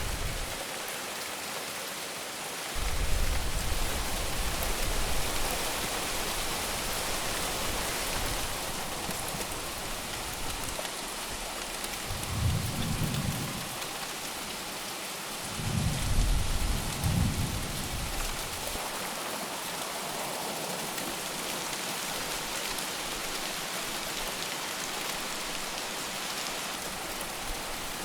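Steady heavy rain falling in a monsoon storm, with low rolls of thunder starting about 3 seconds in, again near the middle, and twice more soon after.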